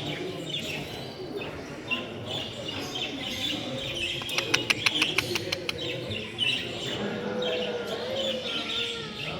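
Many caged birds chirping and calling together. About halfway through comes a quick run of about eight sharp clicks, and near the end a low, wavering whistle-like tone.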